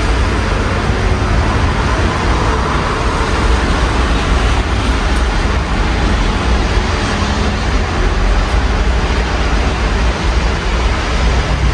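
Steady rain falling outside an open window, with the low rumble of street traffic running underneath.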